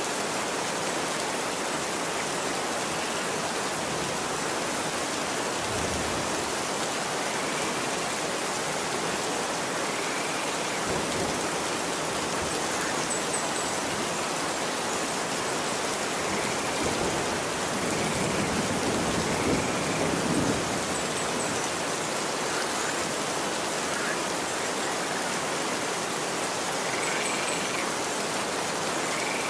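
Steady rain falling on a street, an even hiss of drops. A low rumble swells briefly about two-thirds of the way through, and faint short chirps come and go.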